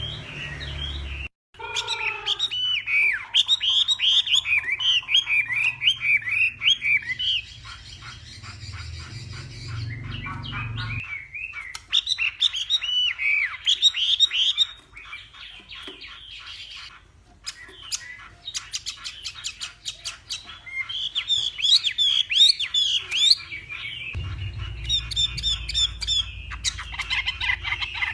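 Chinese hwamei (họa mi) singing a fast, varied song of rich whistled phrases, broken by a few short pauses.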